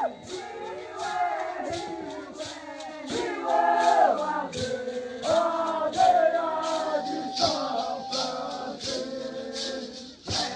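Several voices singing together in a chant, with a shaker or rattle marking a steady beat about twice a second.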